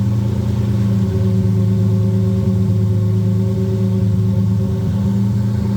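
2003 Lamborghini Murciélago's 6.2-litre V12 on its factory exhaust, idling steadily.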